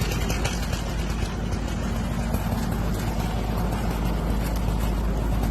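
Steady low rumble of a vehicle engine running, with an even noise over it and no distinct knocks or changes.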